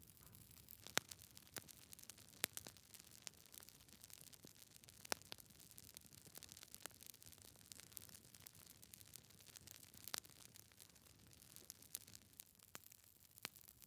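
Wood fire crackling in a fireplace: burning logs give irregular sharp pops and snaps over a faint hiss. The loudest pops come about a second in, near two and a half seconds, around five seconds and around ten seconds.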